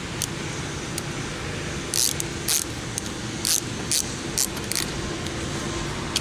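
Small metal hardware jingling in about six short, bright rattles over roughly three seconds, over a steady low background hum.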